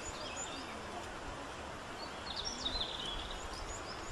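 Small birds chirping over a steady background hiss. Short high chirps are scattered throughout, with a quicker, louder cluster of calls about two and a half seconds in.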